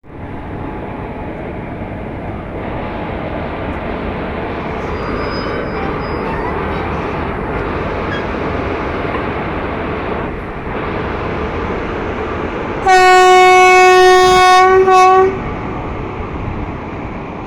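Steady rumble of a departing express train, then about thirteen seconds in the WAP-4 electric locomotive's horn sounds for a little over two seconds, with a brief break near its end.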